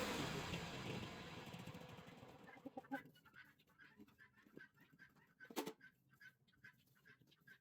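A garden machine's motor dying away over the first couple of seconds, leaving a bird chirping over and over, about two short calls a second, with one sharp click about halfway through.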